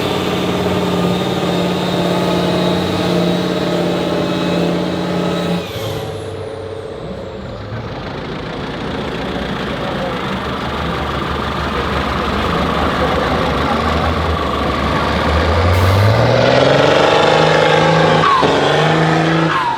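Heavy off-road trial truck's diesel engine running at a steady pitch, then a sudden change to a rougher, quieter engine noise about six seconds in. Near the end the engine revs up with a rising pitch and runs at its loudest.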